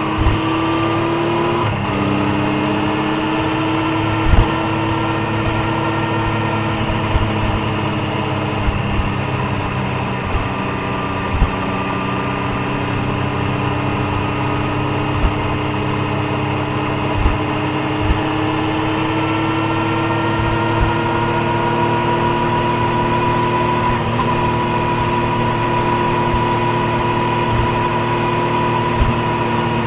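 Triumph Street Triple 765's inline three-cylinder engine and exhaust under way on the road. The pitch drops about two seconds in with an upshift, then climbs slowly as the bike gently gathers speed and holds steady. Occasional short low thumps come through.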